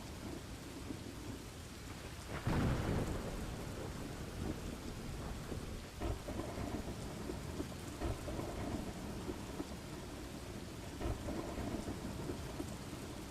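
Steady rain falling with thunder rumbling; the loudest roll comes about two and a half seconds in, with fainter swells of thunder later.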